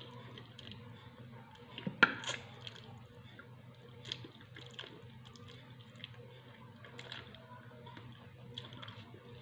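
Close-up eating sounds: wet chewing with small scattered clicks, one louder click about two seconds in, over a steady low hum.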